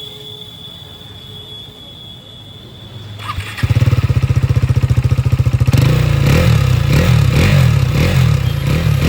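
KTM Duke 390's single-cylinder engine, breathing through an aftermarket Akrapovic exhaust with the dB killer fitted, starts up about three and a half seconds in. It idles with an even, fast pulse, then from about six seconds in it is revved in repeated quick throttle blips.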